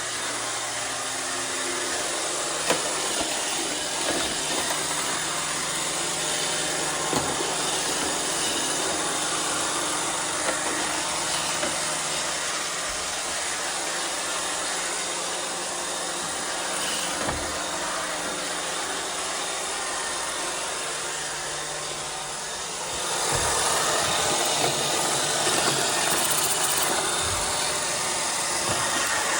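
iRobot Roomba 630 robot vacuum running: a steady whir of its vacuum motor and brushes with scattered clicks and knocks. It gets louder about three-quarters of the way through.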